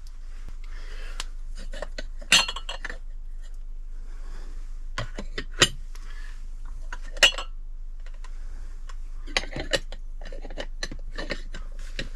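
Fire King ivory ovenware glass bowls clinking and knocking against each other as they are handled, in scattered sharp clinks, a few louder than the rest.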